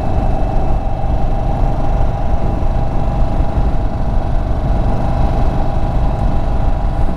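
Indian Chief Bobber Dark Horse's air-cooled V-twin running steadily under way at cruising speed, with a constant low rumble of wind buffeting the microphone.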